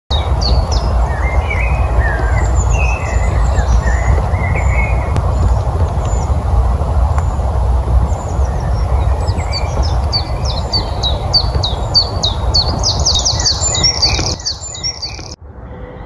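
Woodland birdsong: several birds chirping and warbling, one of them singing a fast run of repeated high notes in the second half. Underneath is a steady low rumble that is louder than the birds, which fades out near the end.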